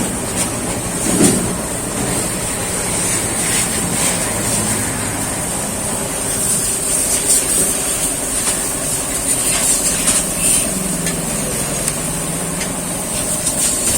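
TVS Star City Plus single-cylinder four-stroke engine running steadily with a newly fitted timing chain, the timing chain rattle gone.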